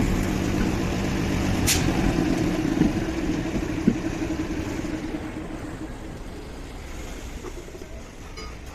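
A motor vehicle's engine running, fading away over the second half, with a sharp click about two seconds in and a knock about four seconds in.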